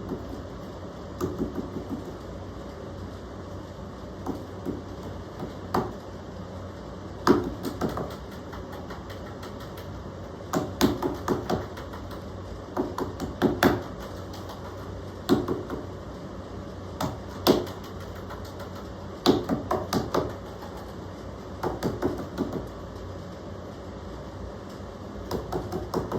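A hand banging on a tabletop and a pet bird knocking its head against something in answer. They come as bursts of several quick knocks every couple of seconds.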